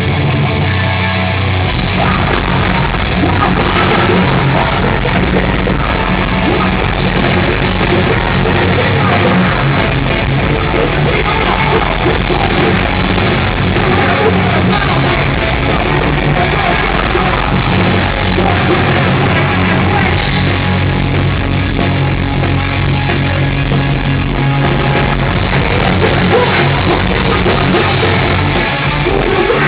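Heavy rock band playing live at full volume: electric guitars and drums with yelled vocals.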